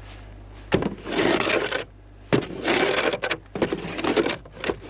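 Crunching, scraping noise of packed snow and ice, in four long strokes about a second apart after a sharp click under a second in.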